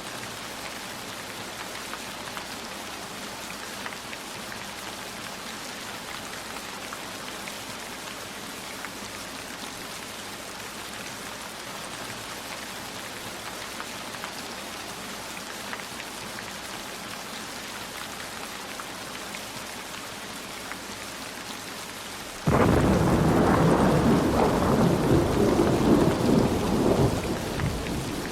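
Steady rainfall with scattered light drip ticks. About three-quarters of the way through, a loud rumble of thunder sets in suddenly and rolls on, easing a little near the end.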